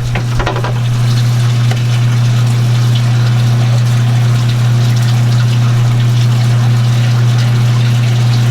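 Boat air-conditioner seawater pump running with a loud, steady low hum, with water pouring from the opened line into the bilge.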